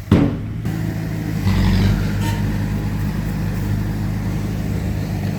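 Heavy diesel engine of earthmoving machinery running steadily under load, getting louder about a second and a half in. A sharp knock comes right at the start.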